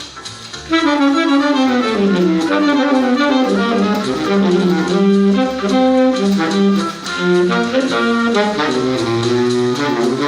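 Baritone saxophone playing a jazz solo line: a brief breath pause right at the start, then a long phrase of quick notes winding up and down.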